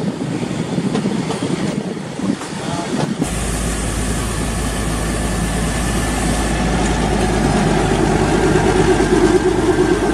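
Narrow-gauge train coach rolling along the track, heard from an open window. About three seconds in, this gives way to a narrow-gauge diesel locomotive hauling its coaches past close by, its engine hum growing louder as it comes by.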